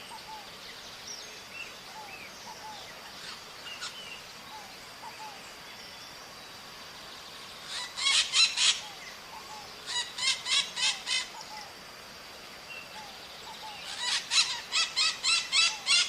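Maritacas (Brazilian parrots) calling in three loud runs of quick, repeated screeching calls, the first about halfway through, the others a couple of seconds and then about six seconds later. Faint chirps of other birds and a steady high-pitched tone sit underneath.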